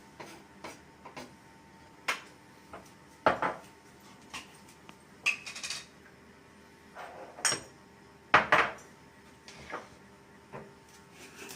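Cooking utensils knocking and clinking against pans and dishes in irregular strikes, the loudest about three seconds in and again about eight seconds in.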